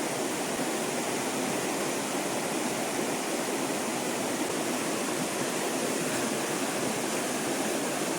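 Steady rushing of a fast-flowing stream, an even wash of water noise.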